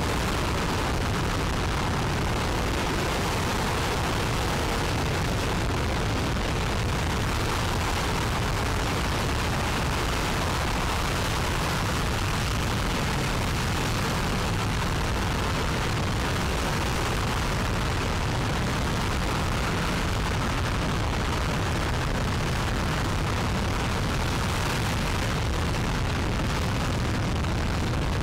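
RS-25 liquid-hydrogen/liquid-oxygen rocket engine firing on a static test stand in a long continuous burn: a steady, unbroken rushing roar of exhaust noise.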